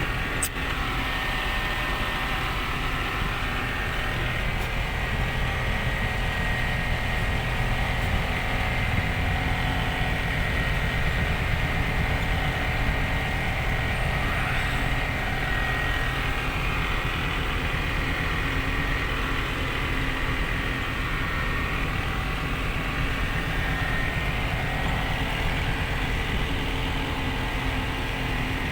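Truck engine running steadily, a continuous low drone with road noise and one brief click about half a second in.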